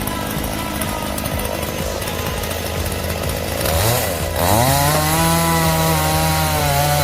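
Chainsaw engine rising quickly to high revs about four seconds in and running at high speed, under background music.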